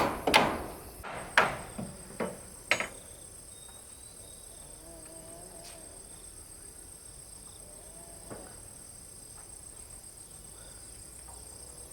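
Five hammer blows, most likely on the wood of the stairs and railings, in the first three seconds. After them a steady high-pitched insect chorus goes on alone.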